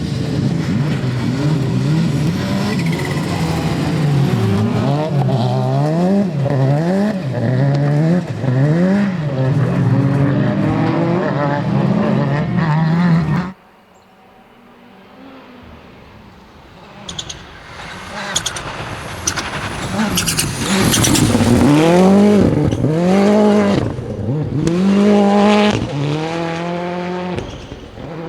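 Rally car engines at full throttle, the revs rising and dropping sharply through quick gear changes. About halfway through, the sound cuts abruptly to a quieter stretch, and then another rally car comes up revving hard, with a run of sharp cracks mixed in.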